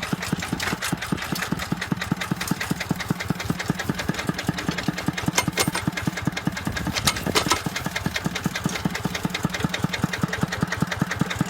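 Kubota tractor's diesel engine running steadily with an even chugging beat, about six a second. A few louder knocks come about halfway through.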